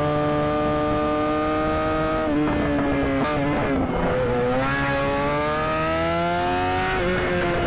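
Motorcycle engine running at high revs with a steady pitch. The pitch drops about two seconds in, climbs steadily from about four seconds, then drops again near the end.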